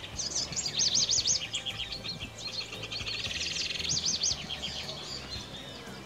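Birds singing: rapid rising-and-falling whistled notes and fast trills, busiest and loudest about a second in.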